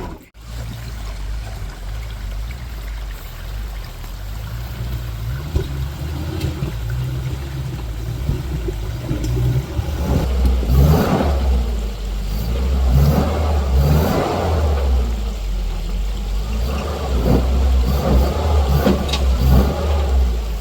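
Off-road 4x4 truck engine running at low revs, then revving repeatedly and louder from about halfway through as it works the truck over an obstacle.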